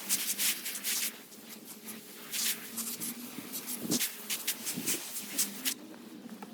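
Garden hose water spraying in uneven gushes onto a garden bed, stopping shortly before the end.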